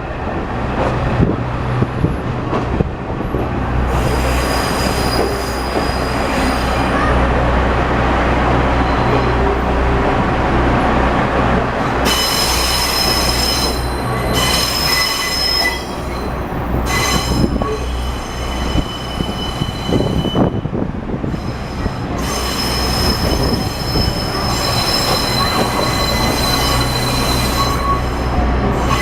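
KiHa 40 series diesel railcar heard from aboard, moving slowly: a steady low engine hum and rumbling running gear, with a high wheel squeal that comes and goes through the second half.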